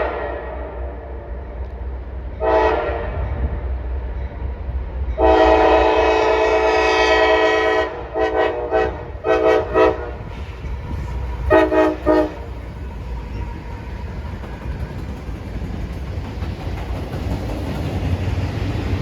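Freight locomotive's multi-note air horn sounding a series of blasts: a short blast, a long blast of about two and a half seconds, then several quick short toots. Under the horn, and after it, the locomotives' steady low rumble builds as the train comes closer.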